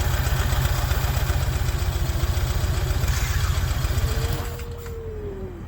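Motorcycle engine idling with a low, evenly pulsing rumble that drops away and quiets about four seconds in.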